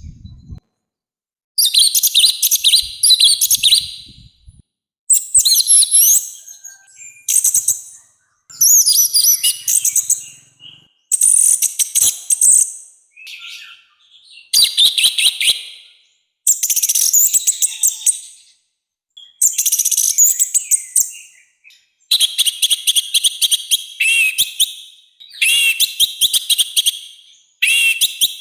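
Orange-headed thrush (anis merah) singing loud, harsh song phrases over and over. Each phrase lasts one to two seconds, is made of rapid stuttering high notes, and is followed by a short pause.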